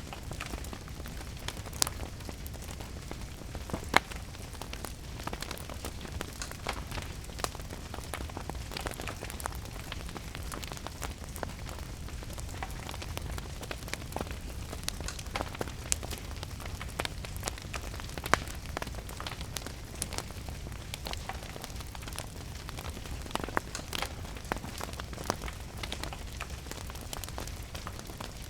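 Wood fire crackling with frequent sharp pops, a loud one about four seconds in, over a steady hiss of rain and a low rumble.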